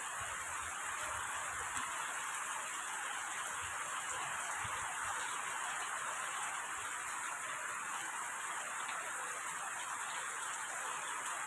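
Steady rain hiss without a break, with a few faint low thumps near the start.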